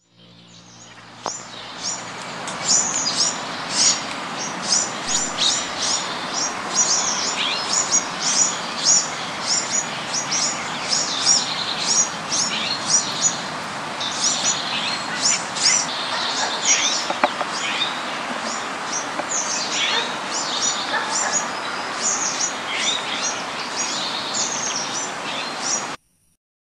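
Birds chirping: many short, high calls following one another rapidly over a steady background hiss. It fades in over the first couple of seconds and cuts off suddenly near the end.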